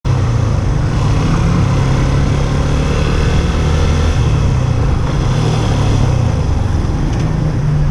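Motorcycle engine running steadily while riding, its note shifting slightly, over constant wind and road noise.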